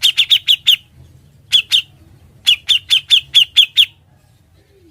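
Cucak jenggot (grey-cheeked bulbul) calling in rapid runs of sharp, falling notes, about five a second: a run of six, a pair, then a run of eight. It stops about a second before the end.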